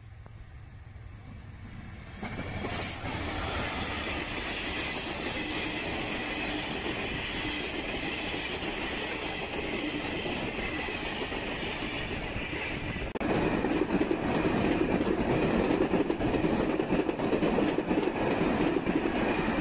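Egyptian National Railways passenger trains passing close by, wheels rolling and clattering over the rails. A faint low hum jumps about two seconds in to the loud, steady rolling of a passing train with a constant high ringing. About 13 seconds in it jumps again to a louder, deeper rumble.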